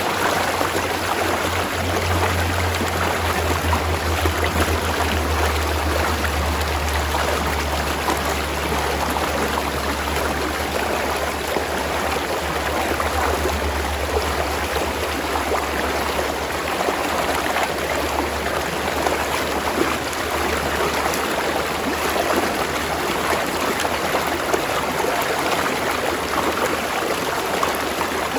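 Spring-fed stream water rushing and trickling over rocks in a steady, even flow. A low rumble sits underneath for most of the first twenty seconds, then fades.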